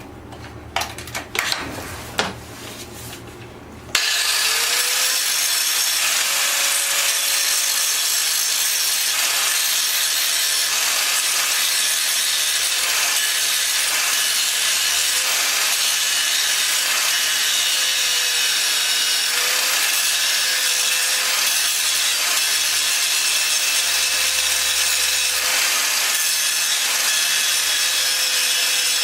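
Small metal parts clinking, then about four seconds in a high-speed power tool starts and runs steadily with a slightly wavering whine, worked on the starter motor's stripped screw.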